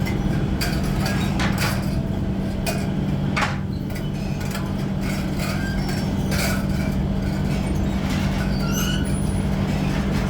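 Workshop machinery running with a steady low hum, with scattered metal clinks and knocks of kettle parts being worked.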